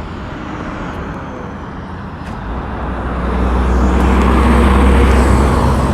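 A road vehicle passing close by, its engine and tyre noise rising to a peak about five seconds in.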